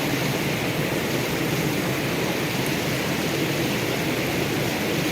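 Forest stream rushing over its bed, a steady even flow of water.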